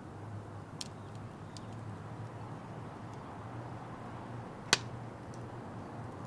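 Wood fire crackling, with a few small sharp pops and one loud snap about three-quarters of the way through, over a low steady hum.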